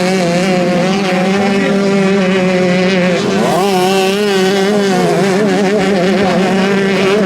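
Motocross motorcycle engines running at high revs, with the pitch wavering as the throttle changes. About three seconds in, one revs up sharply, then eases off a second or two later.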